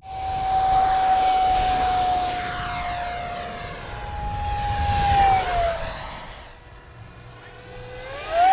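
Electric ducted-fan whine of a 6S, 70mm EDF Sky Sword RC jet flying past at speed. The whine drops in pitch as the jet passes about five seconds in, goes quieter, then rises again as it comes back near the end.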